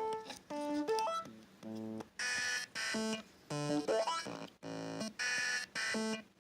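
Teenage Engineering Pocket Operator playing a looped sequence of short, buzzy synth notes that step between pitches. From about two seconds in the notes turn brighter and noisier, with quick pitch glides.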